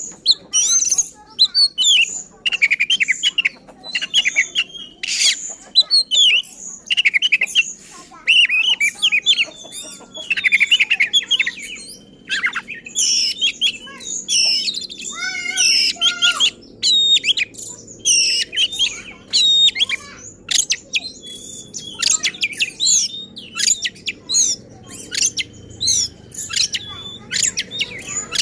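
Oriental magpie-robin (kacer) singing nonstop in fast, harsh strings of chirps and whistles, with a short run of lower falling notes about halfway through: the agitated, insistent song of a bird in fighting mood that runs through its repertoire of learned phrases.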